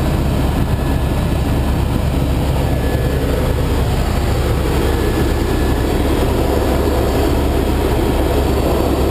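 Helicopter in flight: loud, steady engine and rotor noise with a low hum and no change in pitch.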